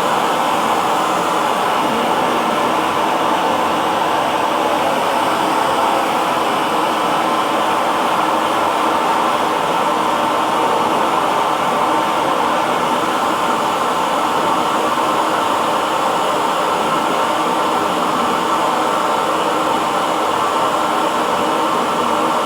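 Hair dryer running steadily, a constant even whoosh of blown air with a faint motor hum.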